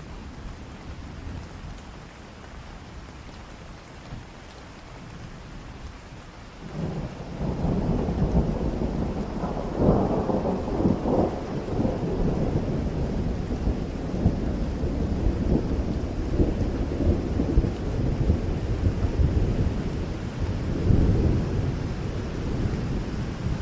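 Steady rain, then about seven seconds in a long roll of thunder sets in. It swells to its loudest a few seconds later and keeps rumbling low over the rain.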